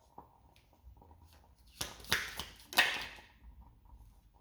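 Two short rustling swishes of a deck of cards being handled, about a second apart, each starting with a sharp snap.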